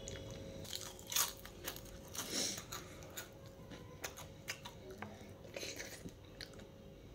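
A person chewing and biting food close to the microphone, with irregular crunchy clicks, the loudest about a second and about two and a half seconds in.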